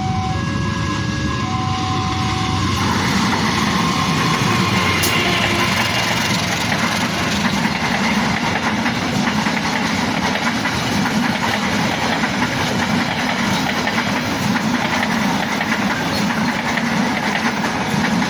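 Passenger train passing close by: a steady rumble and the noise of wheels on rails build up about three seconds in and carry on without a break. Over the first few seconds a repeating electronic warning tone sounds in short alternating notes.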